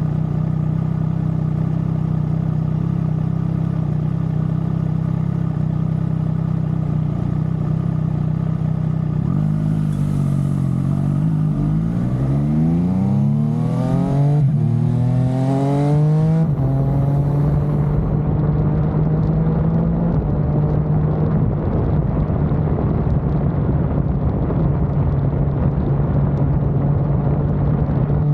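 Triumph Street Triple RS inline three-cylinder engine through a Leo Vince LV One aftermarket exhaust. It runs at a steady note, eases off about nine seconds in, then pulls hard twice with rising pitch and a break between, as when accelerating up through a gear change, and settles into a steady, slightly louder note for the rest.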